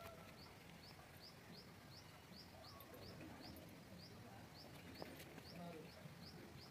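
Faint bird chirping: a steady series of short, high chirps, about three a second, over a quiet outdoor background.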